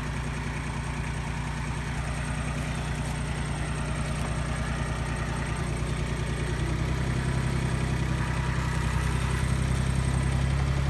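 Yanmar 169D compact diesel tractor engine running steadily, getting louder and rising a little in pitch about seven seconds in.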